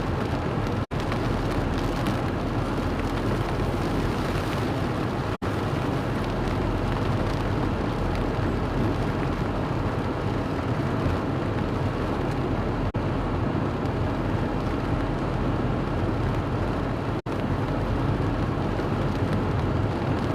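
Steady rushing noise of a vehicle travelling through heavy rain and strong wind, broken four times by very brief audio dropouts.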